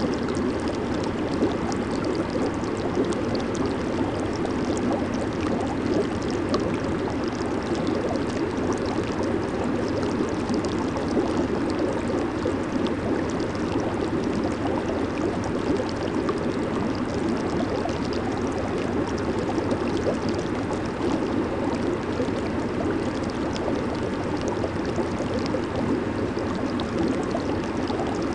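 Hot tub water churning and bubbling under its jets, a steady rushing gurgle with fine fizzing on top.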